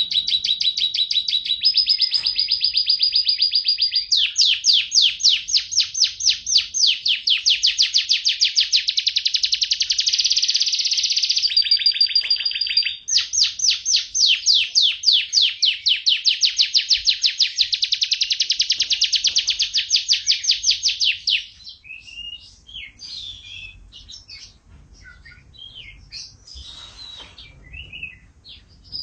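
Domestic canary singing in long runs of rapid trills, with a brief break about thirteen seconds in, then scattered shorter chirps over the last several seconds.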